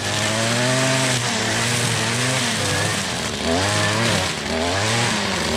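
Gas weed eater (string trimmer) cutting tall grass and weeds. The engine revs rise and fall about every second as it is throttled and loaded down by the growth.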